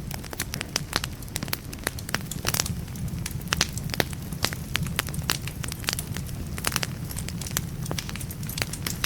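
Burning firewood in a fireplace crackling, with frequent irregular sharp pops and snaps over a steady low rumble of the flames.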